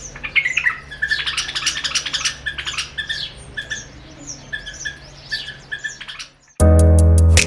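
A pair of white-eared bulbuls calling and singing rapidly, short repeated notes mixed with fast chattering, as they sing at their own reflection in a mirror. About six seconds in the birds stop and louder music starts abruptly.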